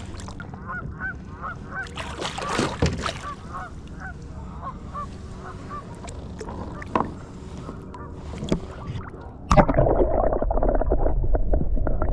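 Geese honking, with many short calls in quick succession. About two-thirds of the way through, a sudden, much louder rough noise sets in and continues.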